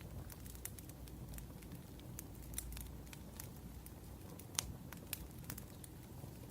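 Wood fire crackling: sharp, irregular pops and snaps over a steady low rumble, with the sharpest pop about four and a half seconds in.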